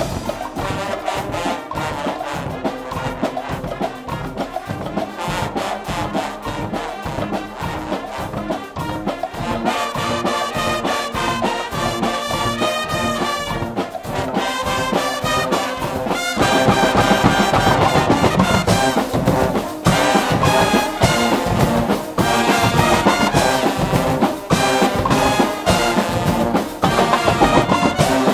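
Guggenmusik band playing: loud brass (trumpets and trombones) over a steady drum beat, the band growing louder about two-thirds of the way through.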